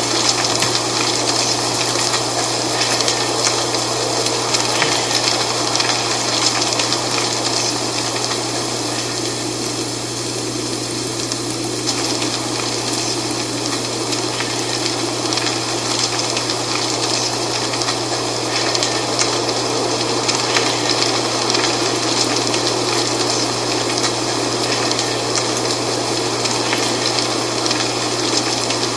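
Dry fall leaves rustling in the wind, a steady dense crackle that swells and eases slightly, over a steady low hum.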